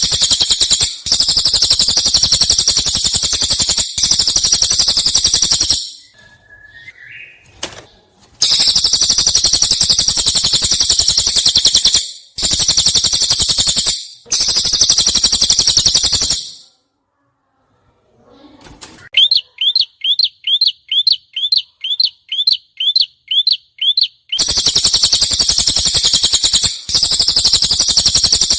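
Prenjak cililin (a prinia) singing loud, very rapid buzzy trills in phrases of several seconds with short breaks. About two-thirds of the way in comes a run of about fifteen clear, evenly spaced repeated notes, roughly three a second.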